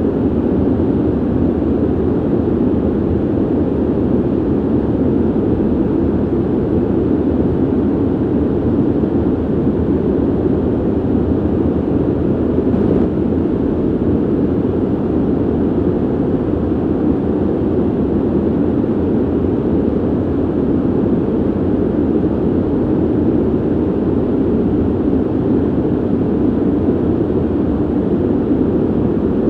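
Ventilation noise: a steady, deep rushing hum of air, strongest in the low-middle range and even throughout, with no change in level.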